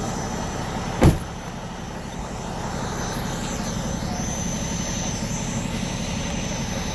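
A vehicle running steadily, its engine hum and road noise heard throughout, with one sharp knock about a second in.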